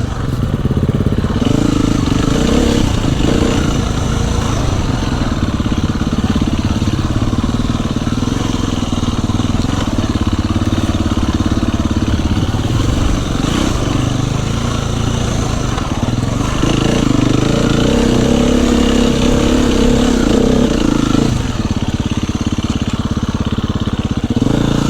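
Dirt bike engine running under the rider, revs rising about a second in and again for several seconds past the midpoint, then easing off.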